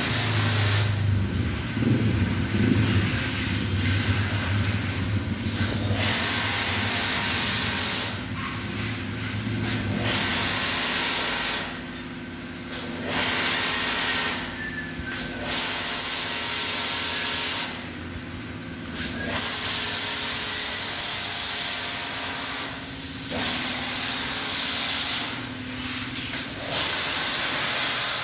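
High-pressure washer spraying water onto a car in a loud steady hiss, stopping for a second or so about six times as the trigger is released, with the pump's low hum under the first part.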